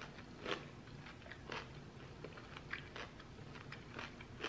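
A person chewing a crunchy cucumber snack close to the microphone: faint, irregular crunches and wet mouth clicks, with a slightly louder crunch about half a second in and another near the end.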